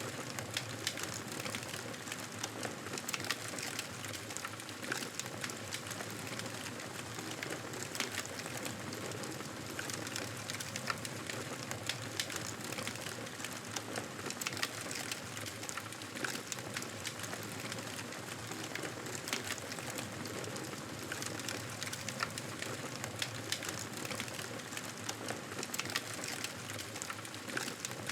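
Fireplace crackling: a steady hiss with frequent small, irregular pops and snaps.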